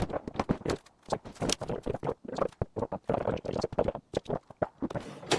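A quick, irregular run of knocks and clatters, like hard parts being handled and bumped together.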